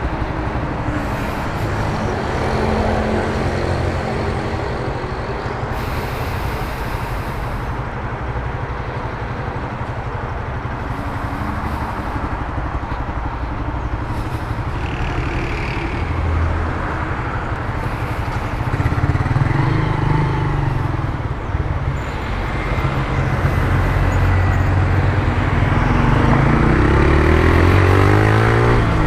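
Honda CG Titan 150's single-cylinder four-stroke engine running through an aftermarket Turuna exhaust while riding on the road, with a steady exhaust rumble under wind and traffic noise. Near the end it revs up, rising in pitch.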